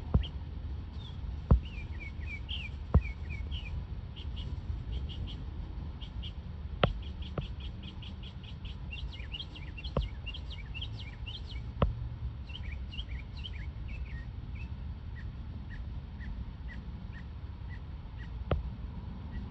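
A small bird singing: short descending chirps and whistled notes, running into quick rapid series in the middle, over a low steady rumble. A few sharp clicks stand out, louder than the song.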